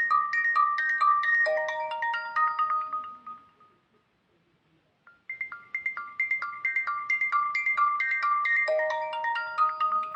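Nokia 3110 Classic polyphonic ringtone: a fast melody of short, bright struck notes that ends on a few longer, lower notes. It stops for about two seconds a little after the three-second mark, then the same phrase repeats.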